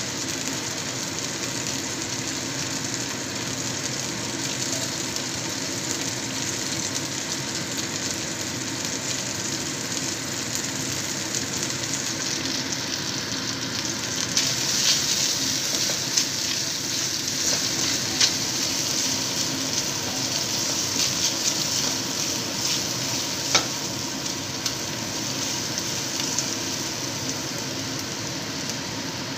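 Minced garlic sizzling in hot oil in a pan. Partway through, the sizzle grows louder as chopped spring onion whites go in, with a few sharp ticks over the following seconds.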